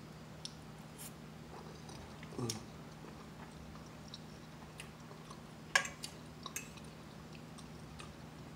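Close-up mouth sounds of a person chewing a soft forkful of pancake with peach compote: quiet, wet chewing with scattered small clicks and smacks. There is a sharper click about six seconds in, over a faint steady hum.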